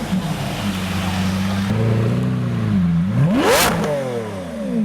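A car engine running steadily, then revved hard once about three seconds in: the pitch climbs fast, peaks sharply and falls away near the end.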